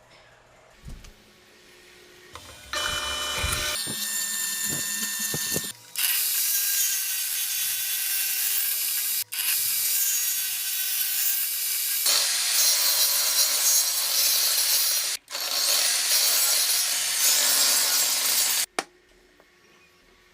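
Power tools cutting wood, in a run of short clips joined by abrupt cuts. Each clip has a steady cutting noise with a faint motor whine. The cutting starts about three seconds in and stops abruptly near the end.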